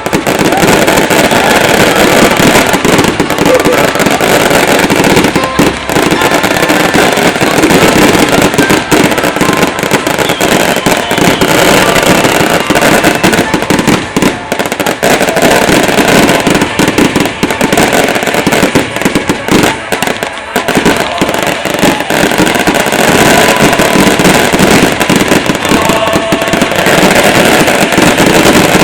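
Fireworks display: a dense, near-continuous barrage of loud bangs and crackling, with hardly a pause.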